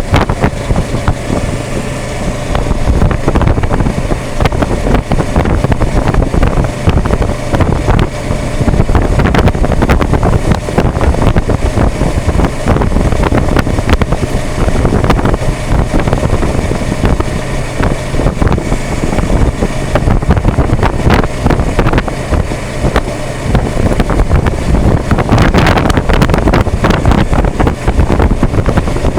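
Kawasaki Versys 650 parallel-twin motorcycle cruising steadily at about 30 mph. Heavy, irregular wind buffeting on an action cam's built-in microphone, which has no external mic, largely covers the engine.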